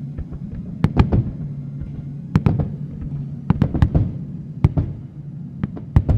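Fireworks bursting overhead in an irregular series of sharp bangs, some in quick clusters, over a steady low musical drone.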